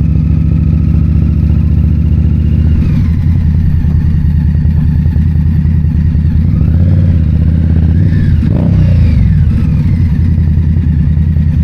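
A 2022 Indian Scout Bobber's V-twin engine running while the bike is ridden at low speed. The engine note rises and falls with the throttle, with a brief rev about eight seconds in.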